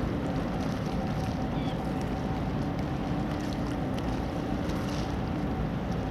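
Wind rumbling on the microphone over a steady low engine drone from a ship or tug, holding an even pitch.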